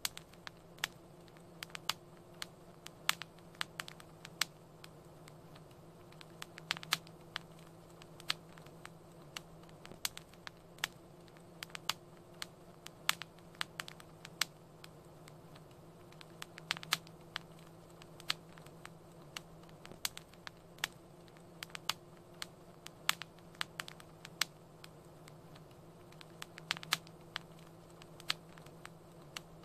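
Wood fire crackling: irregular sharp pops and snaps, several a second, over a low steady hiss with a faint hum underneath.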